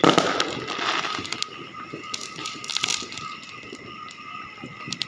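Fireworks going off: a sudden hissing burst that fades over about a second, then scattered pops and crackles, over a faint steady high tone.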